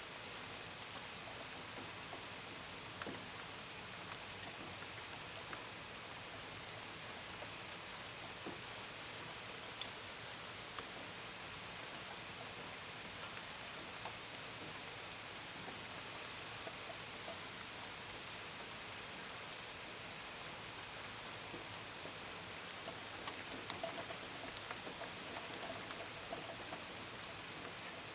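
Steady gentle rain, with scattered drops pattering and ticking on a window and gutters, and a few louder drips clustered near the end. Crickets chirp in a continuous high pulsing trill over the rain.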